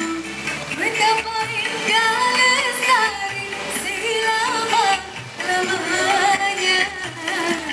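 A singer performing a melodic song over live instrumental accompaniment, with long held, bending notes.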